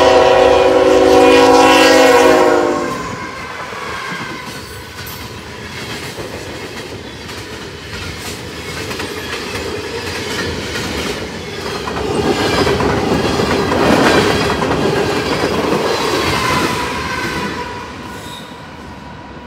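Norfolk Southern diesel locomotive's horn sounding a loud chord that cuts off about three seconds in. The train then rumbles past with its wheels clattering over the rail joints, growing louder again near the end with a thin steady squeal before fading.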